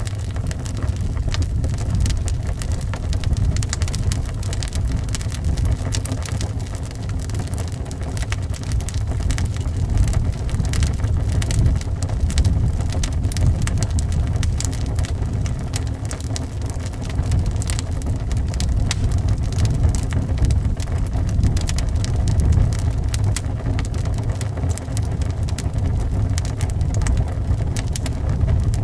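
Wood fire crackling with frequent sharp pops, over a steady low rumble of wind.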